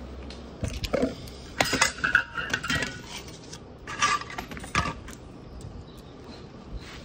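Small metal parts and tools clinking and clattering as they are handled, in several bursts over the first five seconds, then lighter scraping.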